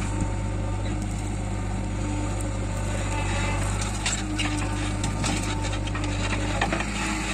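Diesel engine of a working backhoe loader running steadily with a low drone, with scattered knocks and clatter from about four seconds in, typical of loader work.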